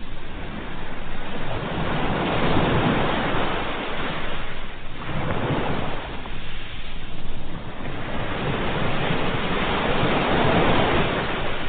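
Ocean waves breaking and washing up the shore, the surf swelling and falling back every few seconds.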